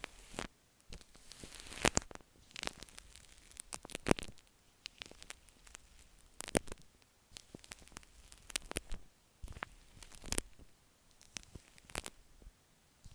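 Shaving cream foam being squished and worked against an earphone microphone: irregular crackles, pops and soft squelches, with a short hissy swell about two seconds in.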